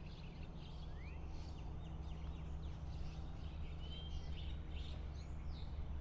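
Scattered short bird chirps and whistles, one of them a brief held whistle near the middle, over a steady low background rumble.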